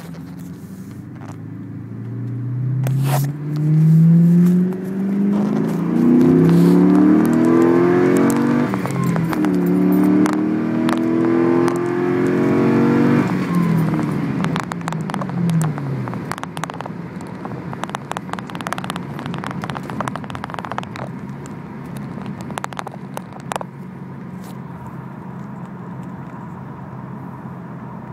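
Pontiac GTO V8 through an X-pipe and Spintech mufflers, accelerating hard: the exhaust note climbs in pitch, dips at each upshift and climbs again, then falls away as the throttle is lifted and settles into a steady low drone. Scattered clicks and rustles of a handheld phone come through over it.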